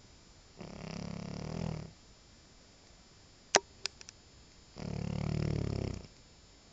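French bulldog snoring in its sleep: two snores about four seconds apart, each lasting over a second. A few short clicks fall between them.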